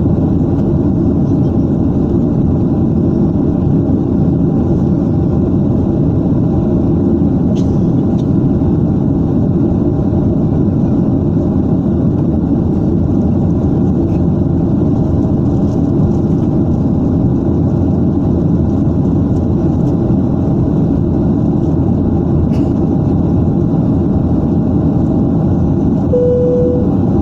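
Steady roar of an airliner cabin in flight: engine and airflow noise, deep and unchanging. Near the end a short single tone sounds.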